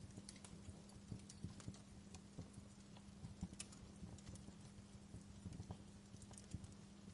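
Wood fire crackling softly, with small irregular pops and snaps several times a second, over a faint steady low hum.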